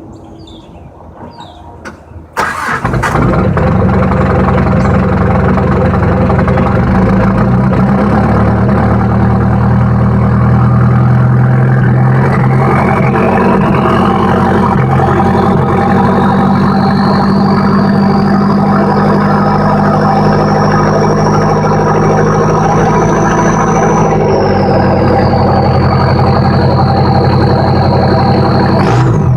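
Diesel engine cold-starting about two seconds in, then running at a raised idle held around 1100 rpm; a weak glow plug leaves it running rough until it smooths out. A high whine climbs slowly through the run, then drops a little and holds about 24 seconds in.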